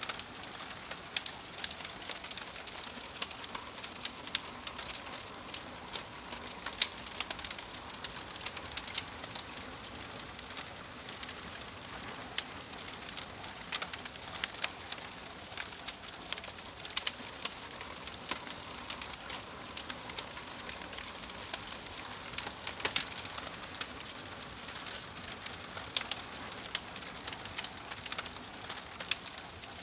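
Fire crackling: a steady hiss with frequent, irregular sharp pops and snaps.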